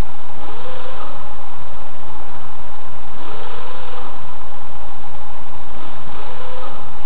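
Car engine revved three times, a couple of seconds apart, each rev a short rise in pitch, over loud steady noise.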